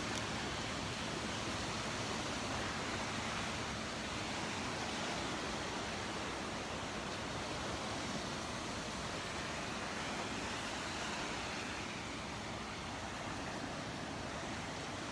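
Steady hiss of surf washing along the shore.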